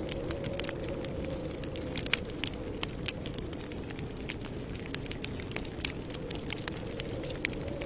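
Campfire crackling: frequent small, sharp pops at irregular intervals over a steady low rush of burning.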